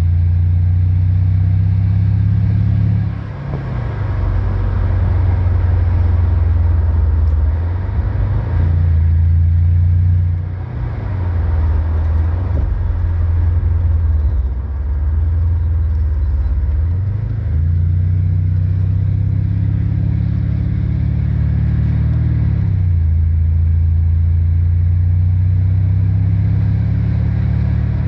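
Mercedes CLS 500's M278 twin-turbo V8 running through a 76 mm cat-back sport exhaust, a deep steady exhaust note whose engine speed shifts several times.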